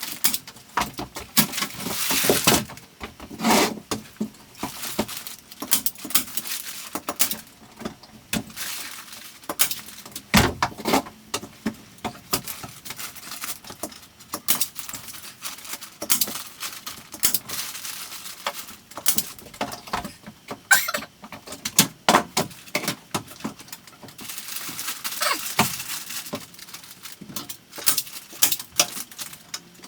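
Irregular rustling and crinkling with scattered knocks and clicks from hands-on work, as insulation material is handled and fitted into the ceiling.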